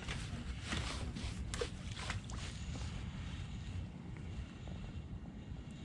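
Wind rumbling on the microphone, with kayak paddle strokes splashing in the water about every half second for the first two and a half seconds.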